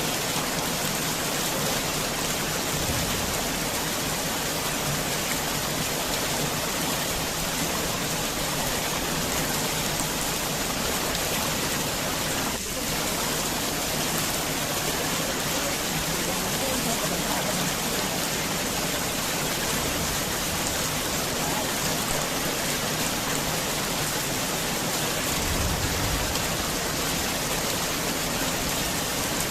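Heavy rain falling steadily on a garden house, an even hiss with a brief dip about halfway through and a short low rumble near the end.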